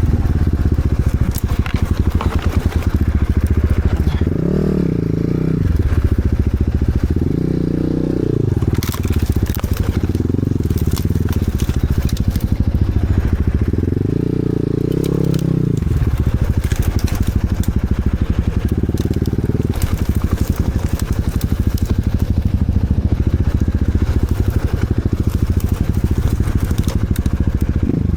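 Enduro motorcycle engine running under load, revving up and easing off several times, loudest around the middle, with crackling and clattering over it throughout.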